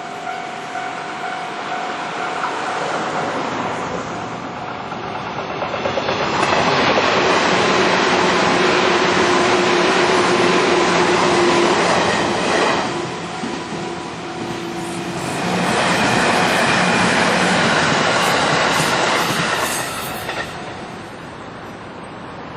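JR West electric train passing over the level crossing, its wheels clicking over the rail joints. The running noise swells loud about a quarter of the way in, dips briefly past the middle, swells again, then fades near the end.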